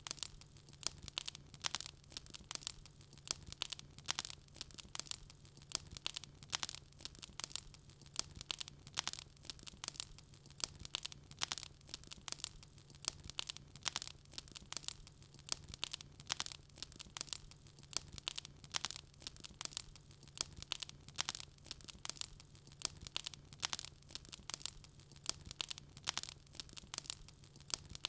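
Wood fire crackling: dense, irregular sharp crackles and pops, several a second, over a faint steady low hum.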